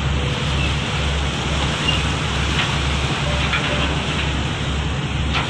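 A fishing boat's engine running steadily, a low drone with a slight regular throb, under a constant hiss.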